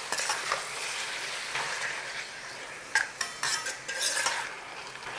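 Chicken pieces sizzling in hot ghee in a pan while being stirred, with a utensil knocking and scraping against the pan several times, mostly about three to four seconds in.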